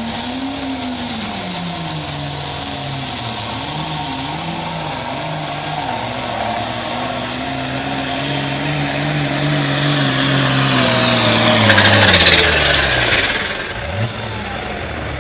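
Limited pro stock pulling tractor's diesel engine running hard under load, its pitch wavering up and down. It gets louder to a peak about twelve seconds in, then the revs fall steeply as the engine winds down near the end.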